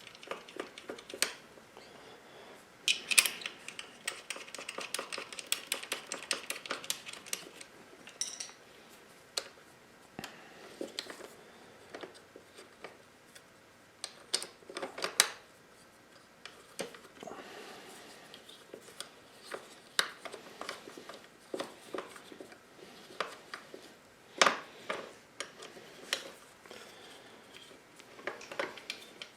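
Hand tools and bolts clicking and clinking on metal as the rear disc guard is bolted onto the brake caliper bracket. There is a dense run of rapid clicking from about 3 to 8 seconds in, and scattered single clinks after it.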